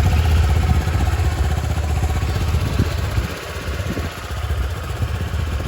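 Motorcycle engine idling with a steady low rumble, a little quieter from about three seconds in.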